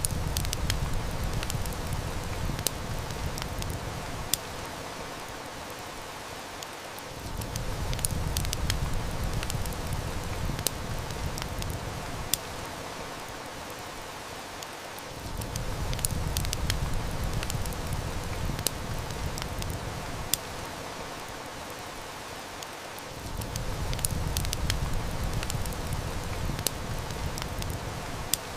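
Steady heavy-rain hiss mixed with the sharp crackles and snaps of a wood fire. A low rumble swells in and drops away again about every eight seconds, in an even, looping pattern.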